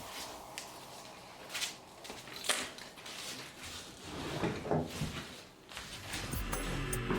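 A few scattered knocks, bumps and rustles of things being handled, with music fading in near the end.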